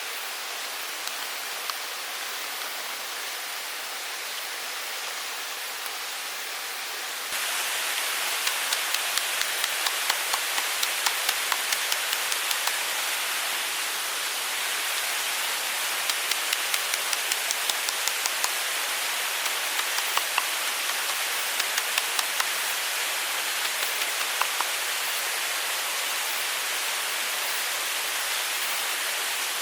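Steady rushing water of a forest stream, stepping up in level about seven seconds in, with several runs of sharp clicks about three a second.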